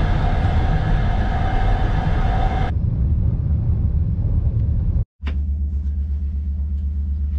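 Steady rumble of a Soviet-era sleeper train running. The sound changes abruptly near three seconds in and again after a brief dropout near the end, where a deeper, pulsing hum takes over.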